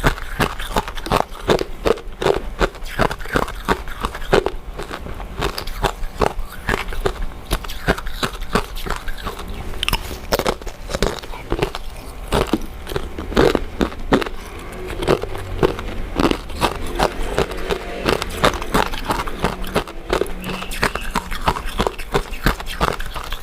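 Close-miked eating: chewing and biting into soft, chewy glutinous rice desserts, heard as a steady run of many quick, irregular mouth clicks.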